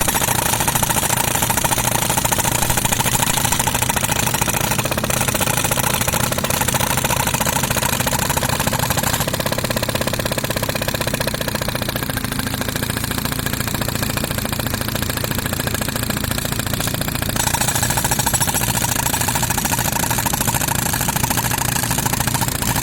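Pneumatic concrete breaker hammering in rapid strokes, driven by a running air compressor's engine. The sharper upper part of the hammering sound eases off for several seconds in the middle and comes back strongly near the end.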